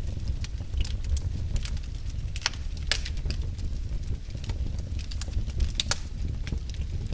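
Wood fire in a fireplace crackling: irregular sharp pops and snaps, a few a second, over a steady low rumble.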